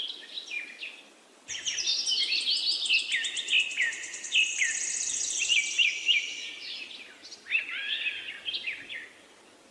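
Several birds chirping and singing over one another in short, sliding, mostly falling notes, with a fast high trill in the middle.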